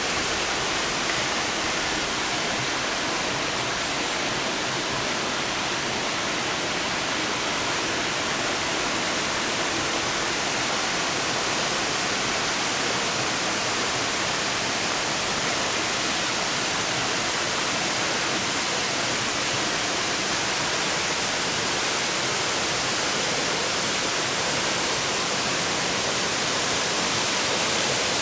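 Waterfall's falling water, a steady, even rush with no breaks.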